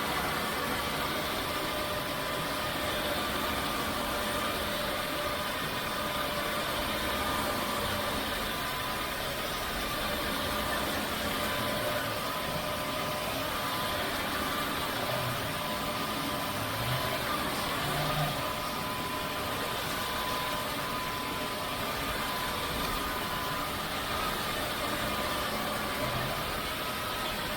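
Narwal S20 Pro cordless wet-dry vacuum mop running in intelligent cleaning mode: a steady motor hum with a thin, even whine over a hiss.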